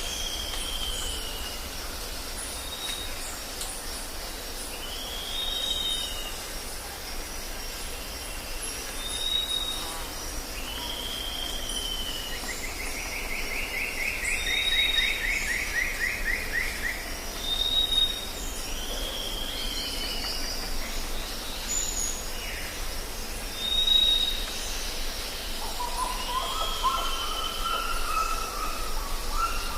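Jungle birds calling over a steady high insect drone. A short high whistled note repeats about every three seconds, between arched, slurred calls, with a long falling trill near the middle.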